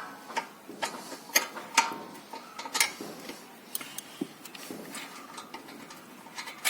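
A 17 mm spanner being worked on a tight bolt at a motorcycle's footrest clamp: a series of sharp metallic clicks, a couple a second at an uneven pace, as the tool is shifted and turned against the nut.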